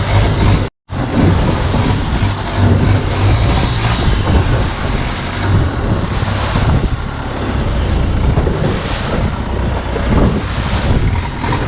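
Longtail boat's engine running under heavy wind buffeting on the microphone, with waves of a choppy sea splashing around the hull. The sound drops out completely for a split second near the start.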